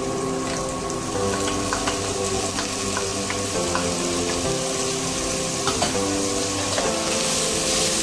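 Food sizzling steadily as it fries in hot oil in a pan, with a few light clicks of a utensil stirring it. Soft background music with held notes plays underneath.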